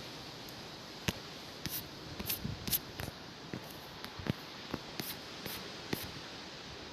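Steady hiss of strong storm wind, with scattered light clicks and taps at irregular intervals.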